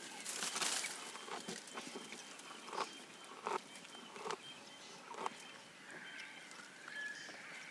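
Giraffe browsing on leaves: a burst of leafy rustling, then short crunching sounds of chewing about once a second. Birds call in the background, with a run of whistled bird calls near the end.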